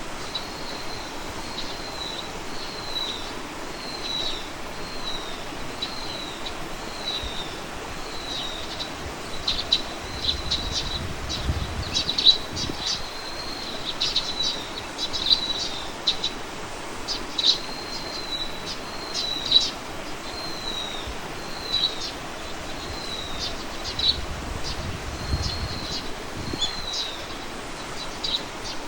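A songbird repeating a short, high, downward-slurred note over and over, a little more than once a second, with sharper chips mixed in. A steady outdoor hiss lies underneath.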